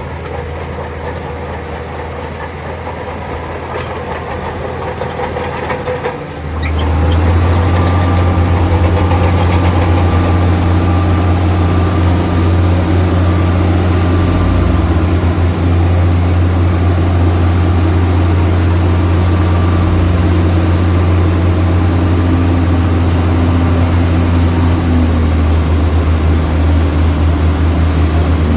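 Heavy diesel engine of earthmoving machinery running. About six seconds in it gets suddenly louder, settling into a deep, steady drone.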